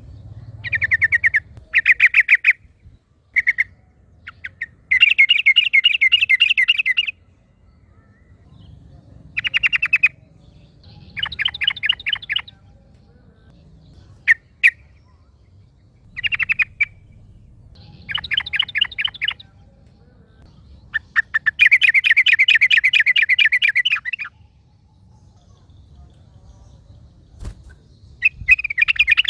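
Yellow-vented bulbul (trucukan) singing: short bursts of rapid, bubbly chattering notes, repeated in about a dozen phrases with pauses between them. Two of the phrases are long, running about two to three seconds each.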